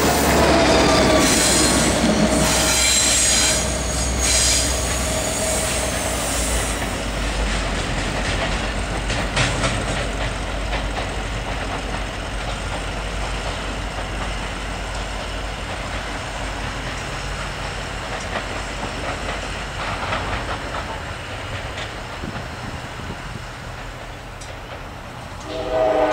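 MARC commuter train's stainless-steel coaches rolling past close by, wheels squealing and clattering over the track for the first several seconds. Then the steady rumble of the train and its diesel locomotive fading as it pulls away, until the train horn starts blowing right at the end.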